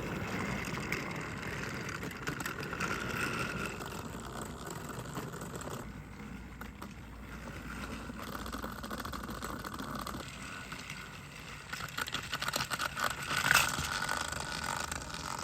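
A battery-powered motorized toy train (Thomas and Friends' Nia) runs its small motor with a steady whir, its plastic wheels and cars rattling and clicking along the plastic track. It is hauling a heavy cargo load up a hill, a load too much for it to carry over the top.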